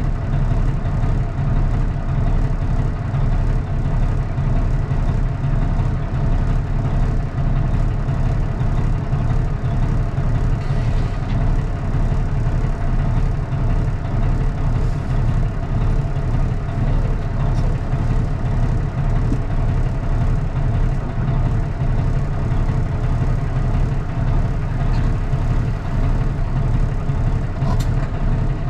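Straight-piped Cummins ISX inline-six diesel in a Kenworth T800 truck running steadily, a loud, even, low rumble with no change in engine speed.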